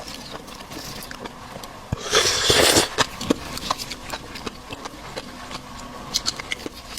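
Close-miked eating sounds: scattered small mouth clicks and food handling, with one loud noisy burst lasting under a second about two seconds in.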